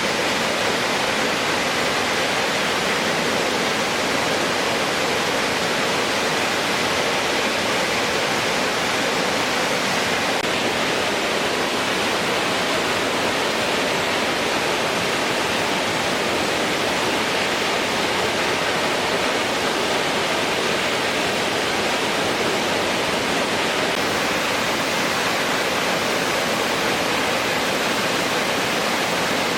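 Waterfall in heavy flood flow after a typhoon: a loud, steady rush of falling water.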